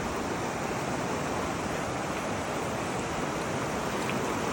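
Shallow, stony river running: a steady rushing of water over stones.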